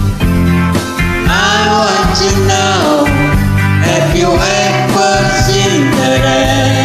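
Country-rock band music: a lead melody with bending, sliding notes over a steady bass and rhythm backing.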